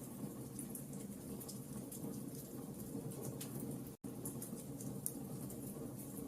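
Campfire crackling: a steady low rush of burning with many small sharp pops and snaps scattered throughout. The sound drops out for an instant about four seconds in, then carries on.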